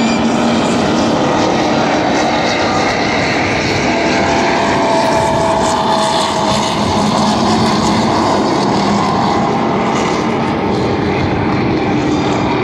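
NASCAR Truck Series race trucks' V8 engines running at speed: a loud, continuous engine drone whose pitch drifts slowly as the trucks pass.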